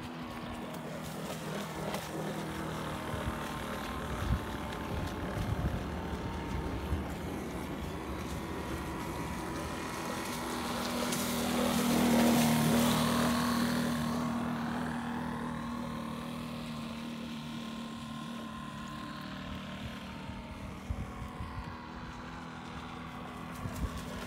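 Model boat's Enya four-stroke glow engine running steadily on the water. It grows louder as the boat passes close, about halfway through, then fades as it moves away.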